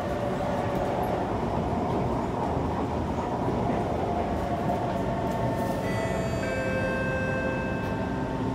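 Steady running noise inside a Kawasaki C151 electric train carriage: rumble of wheels on the track and the train's running gear, with several thin, steady whining tones coming in about six seconds in.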